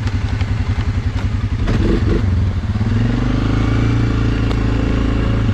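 ATV engine running at low speed with distinct firing pulses, then speeding up about two and a half seconds in and holding a steadier, higher pitch as the quad pulls away, with a brief clatter just before.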